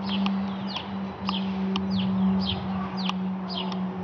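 A small bird chirping over and over, short calls falling in pitch about twice a second, with a few sharp clicks, over a steady low hum.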